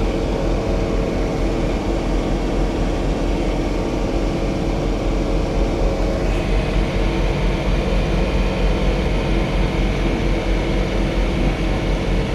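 John Deere 3046R compact tractor's diesel engine running steadily under load at a constant pitch while snow blowing.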